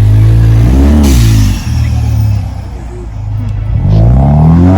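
Car engine revving over a loud low rumble: the pitch climbs and drops back about a second in, then climbs again near the end.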